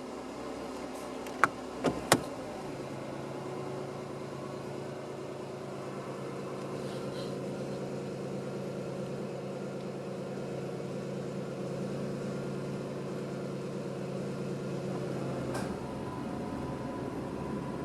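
Nissan Moco MS22S's 660 cc three-cylinder engine idling steadily. Three sharp clicks come about a second and a half in, and about fifteen seconds in another click is followed by a slight change in the running note.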